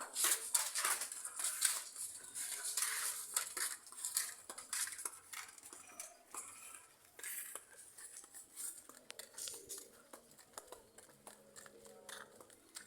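Clinks, scrapes and rustling from a shovel being picked up and handled. The sounds are busiest in the first few seconds and thin out after.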